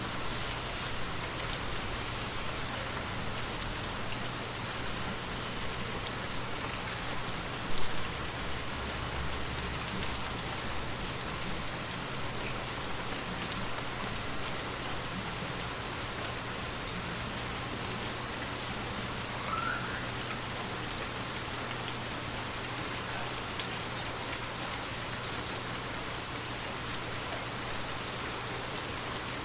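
Steady rain falling and pattering on surfaces, with one brief louder knock about eight seconds in.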